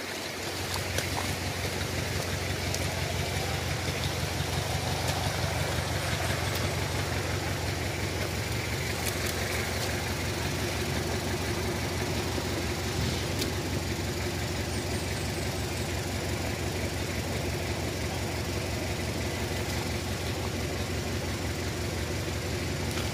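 Off-road 4x4's engine running steadily at low revs, an even, rapid beat with no revving.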